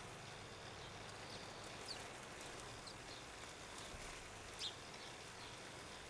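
A few faint, short chirps from small garden birds over a steady background hiss, the clearest coming about three-quarters of the way in.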